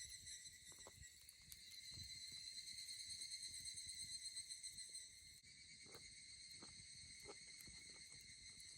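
Faint, steady chorus of crickets and other night insects, a continuous high-pitched chirring, with a few faint ticks.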